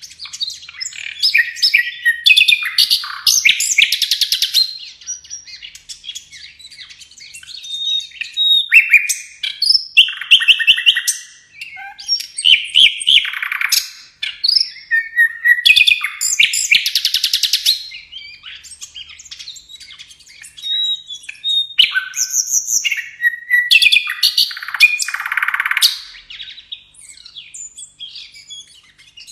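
Songbird, a sikatan londo (flycatcher) used as a tutoring recording for captive birds, singing a loud, varied song of whistles and chirps broken by rapid buzzy trills, in phrases a few seconds long with short pauses between them.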